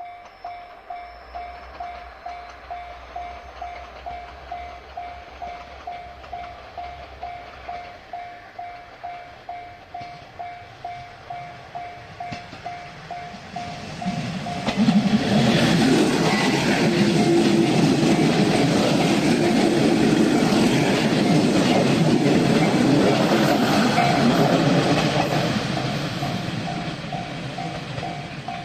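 Japanese level-crossing warning bell ringing steadily at about three strikes every two seconds. About halfway through, an Ishinomaki Line diesel train reaches the crossing and passes over it, loud for about ten seconds before fading, with the bell still ringing.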